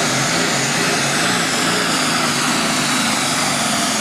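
Triple-turbocharged diesel super stock pulling tractor engine running at full power under load, loud and steady throughout.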